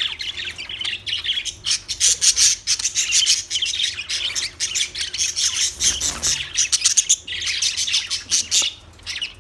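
Budgerigars chirping and chattering in a rapid, dense stream of calls, with short lulls about six seconds in and near the end.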